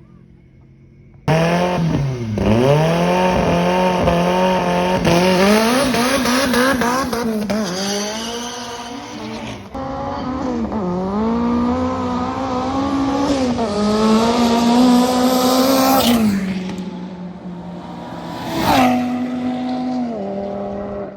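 Drag race car engine revved hard and held near the top of its revs, its pitch wobbling and dipping, with tyre squeal. It cuts in abruptly about a second in and steps down in pitch a couple of times near the end.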